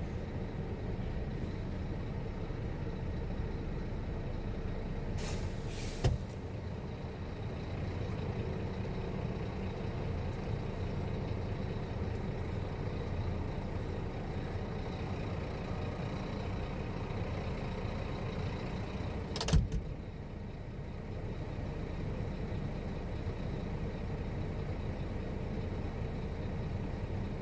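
Truck engine running steadily, a low rumble, with two short sharp sounds standing out, one about six seconds in after a brief hiss and another near twenty seconds.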